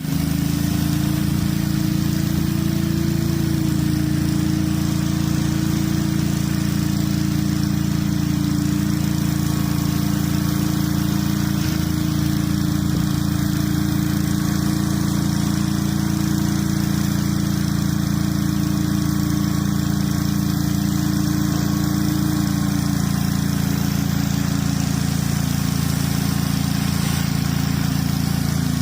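Gas engine of a pressure washer running steadily under a constant hiss, its pitch dipping slightly about twenty-three seconds in.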